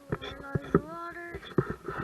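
A voice making wordless, sliding vocal sounds, with several sharp knocks or taps among them.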